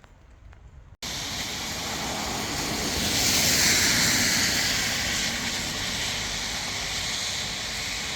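A few faint soft sounds, then about a second in a loud, steady rushing noise begins abruptly and carries on, swelling slightly a couple of seconds later.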